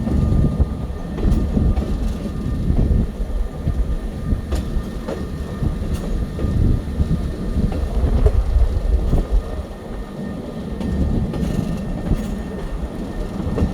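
Open caboose rolling along the track: a steady low rumble from the wheels and running gear, with occasional clacks of the wheels on the rails.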